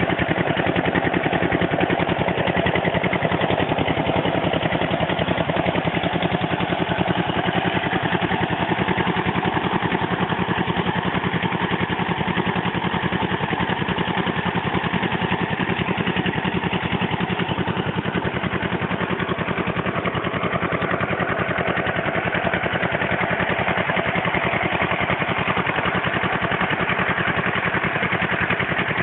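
Small 8 HP single-cylinder diesel water-pump engine running steadily, with a fast, even firing beat.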